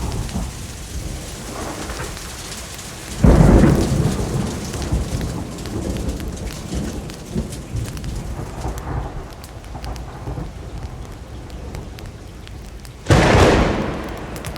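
Steady rain with two claps of thunder, about three seconds in and near the end. Each clap starts suddenly and rumbles away over a few seconds.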